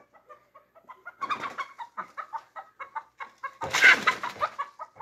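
Chickens clucking in a run of short, quick calls, with a loud noisy burst about four seconds in and a smaller one just after the first second.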